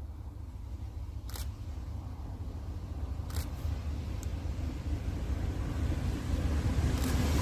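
Diesel train approaching: a low engine rumble that grows steadily louder, with a few brief faint clicks over it.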